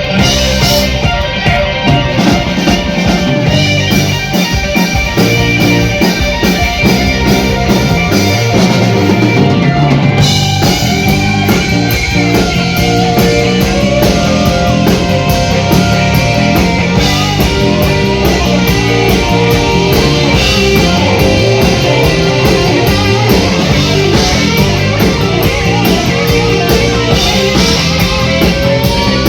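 Live rock band playing an instrumental passage: electric guitars over bass and drum kit, with the cymbals coming in as a steady beat about ten seconds in.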